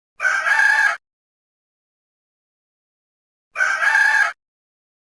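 A rooster crowing, a short crow heard twice about three seconds apart, with dead silence between the crows.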